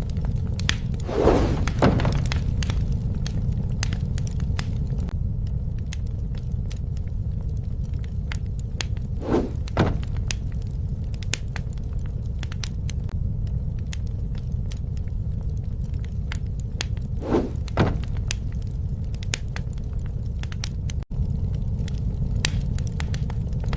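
Wood fire burning: a steady low rumble with constant sharp crackles and pops. About every eight seconds comes a pair of duller knocks, like burning wood shifting and settling.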